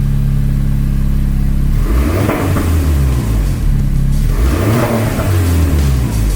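Renault Mégane R.S. Trophy's turbocharged four-cylinder engine idling and revved twice, the revs rising and falling about two seconds in and again near five seconds, heard through its exhaust.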